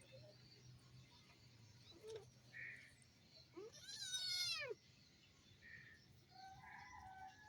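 A cat meows once, a drawn-out call about a second long that rises and then falls in pitch, about four seconds in. A few faint short high calls come before and after it.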